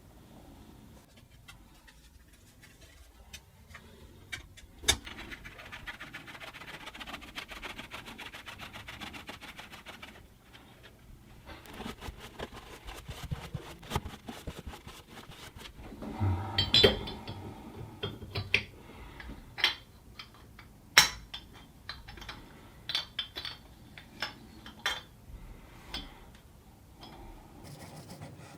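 Metal bathtub drain parts clinking, tapping and scraping as a new drain and its adapter ring are fitted, with sharp knocks loudest around the middle. A stretch of steady rustling hiss comes in the first third.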